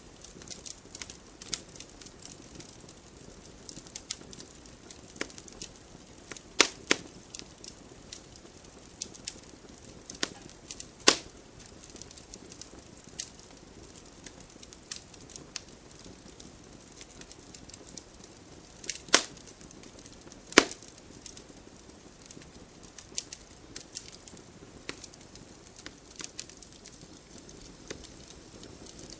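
Wood fire burning in a fireplace: a low steady hiss with irregular crackles and sharp pops of burning logs, a few pops much louder than the rest.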